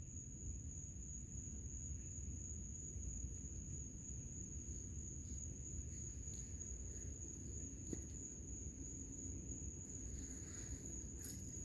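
Night insects giving one steady, unbroken high-pitched trill over a low background rumble, with a couple of faint clicks near the end.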